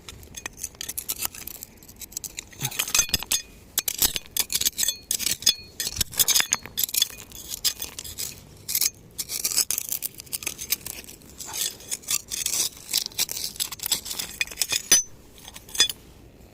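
Stones and pebbles clinking and scraping against one another as they are handled, in a quick irregular run of sharp clicks, some with a brief ring.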